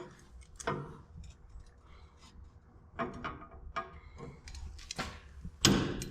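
Scattered clicks and knocks of metal parts and clamps being handled and shifted while a suspension bracket is positioned, with a louder cluster near the end.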